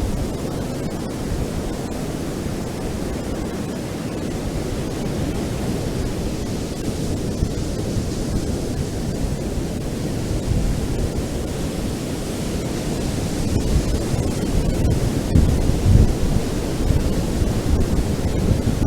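Ocean surf on a beach: a steady rush of waves with a deep rumble, swelling louder in the last few seconds.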